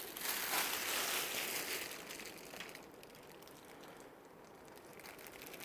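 Rustling and crinkling of dresses being handled and shaken out, loudest for the first two seconds, then softer.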